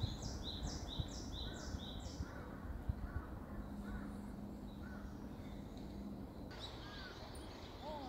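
Wild birds calling in the woods: one bird repeats a high, quick note about five times in the first two seconds, followed by faint short chirps, and a livelier burst of song starts about six and a half seconds in.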